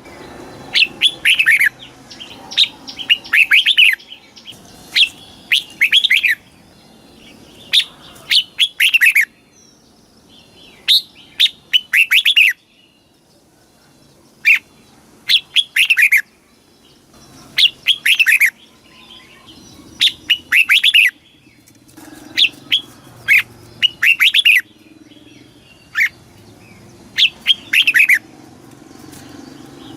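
Red-whiskered bulbul singing: short phrases of quick falling notes, repeated every second or two with brief pauses between them.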